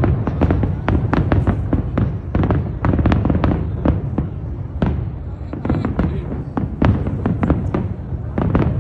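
Fireworks going off in rapid, irregular succession: many sharp bangs and crackles over a continuous low rumble.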